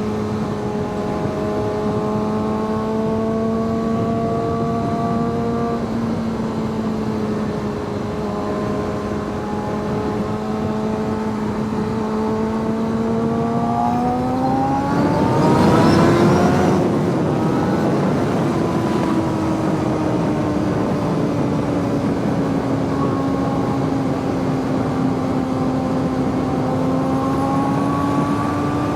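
Suzuki GSX-R sport bike engine under way at a steady cruise. About halfway through it revs up with a louder rush of noise, then settles into a steady, slightly higher-pitched run.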